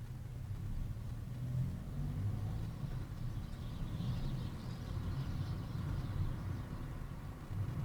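Engine and road noise of a moving car: a steady low rumble, with a hiss that swells and fades in the middle.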